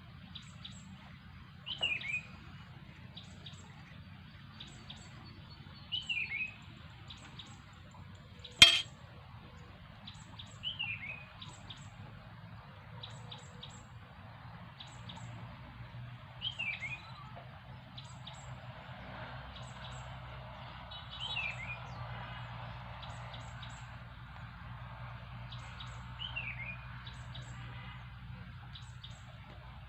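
A bird repeating a short falling call about every five seconds, over faint high chirps. A single sharp click just under nine seconds in is the loudest sound.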